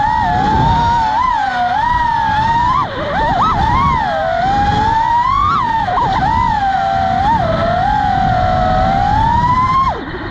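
Motors of a 6-inch FPV drone whining. The pitch rises and falls constantly with the throttle, then drops sharply near the end before climbing again, with a low rumble of wind noise underneath.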